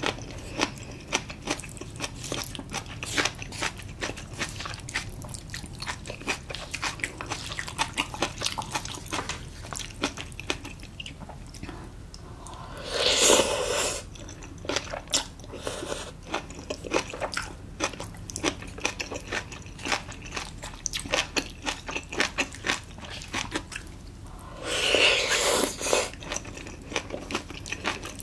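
Close-miked chewing of spicy braised monkfish and bean sprouts, with many small wet mouth clicks and crunches. About halfway through, and again near the end, a loud slurp of a spoonful of sprouts and red sauce.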